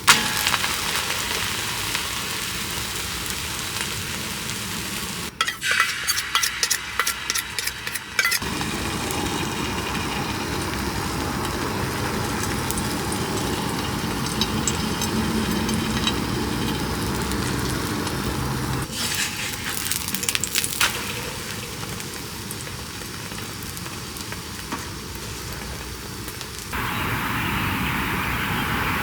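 Food sizzling in a frying pan, with two short runs of clicks and taps about five and twenty seconds in.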